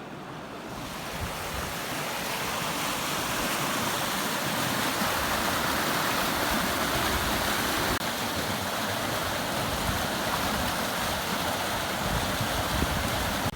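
Floodwater rushing into a washout under a road, eroding the embankment: a steady, even rush of water that builds over the first couple of seconds.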